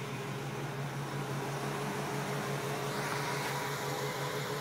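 A 350 Chevy V8 idling steadily: an even low hum with a slight regular pulse and a faint higher tone over it.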